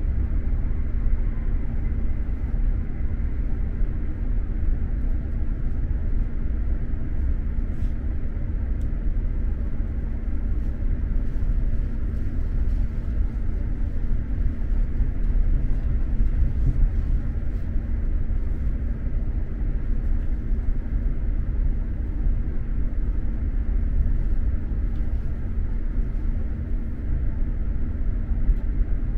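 Steady low rumble of an X2000 high-speed train running, heard from inside the passenger car, with a constant low hum under it.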